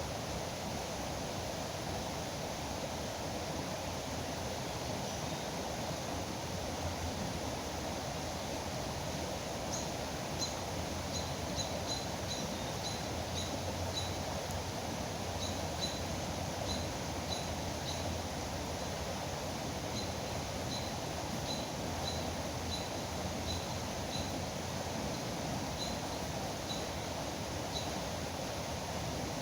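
Steady rush of flowing river water. From about ten seconds in, a bird calls short high notes over and over, about one or two a second.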